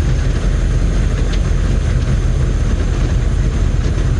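1990 M998 Humvee's 6.2-litre diesel V8 running steadily at low speed, a constant low drone.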